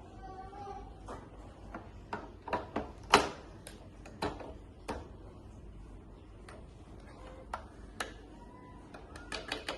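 Irregular sharp clicks and taps, a dozen or so scattered unevenly, with a small cluster near the end.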